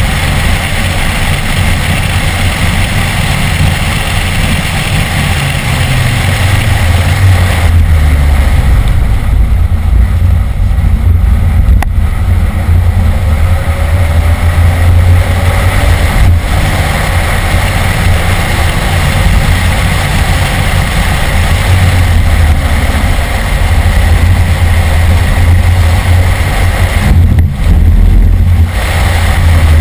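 BMW E46 M3's 3.2-litre inline-six running hard on a race track, heard from inside the cabin over loud wind and road noise. The sound drops briefly three times, the longest dip near the end, as the throttle is lifted or a gear is changed.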